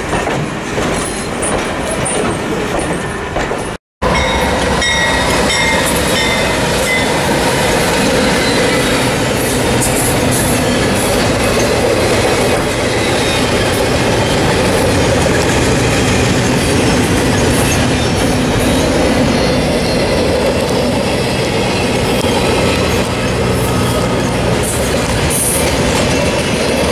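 Intermodal freight train cars carrying highway trailers and double-stacked containers roll steadily past, wheels rumbling and clattering on the rails with some faint wheel squeal. Before that, a vintage passenger coach train rolls by for the first few seconds, and the sound drops out briefly just before the freight begins.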